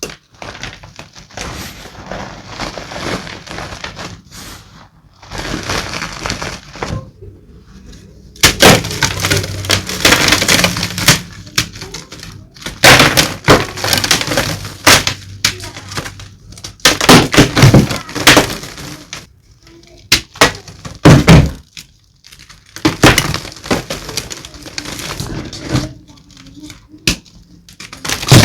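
Blocks of gym chalk being crushed and crumbled, a dense crackling and crunching made of many sharp snaps. Softer crumbling at first, then from about eight seconds in a series of much louder crunches with short pauses between them.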